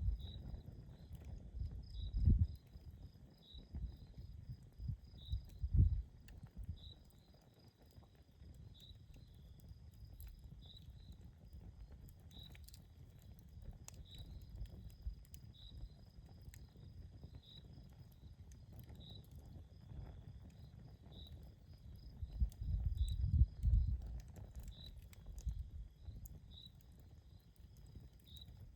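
An insect chirping about once a second over a steady high trill, with a few faint campfire crackles and low rumbles in the first six seconds and again around 23 seconds in.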